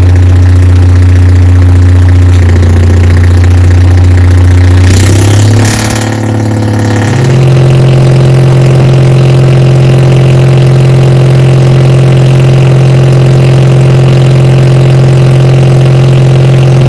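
Lifeboat's diesel engine running loud and steady, then, after a brief burst of noise about five seconds in, speeding up to a higher steady pitch.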